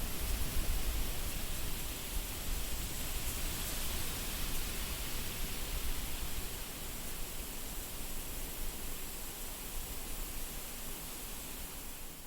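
Wind blowing steadily, with a low rumble that rises and falls in gusts.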